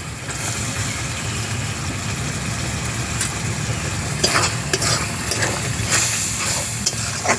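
Onion-spice masala with freshly added chopped tomato sizzling in a large metal karahi as it is fried down, while a metal spoon stirs it and scrapes against the pan several times in the second half, over a steady low rumble.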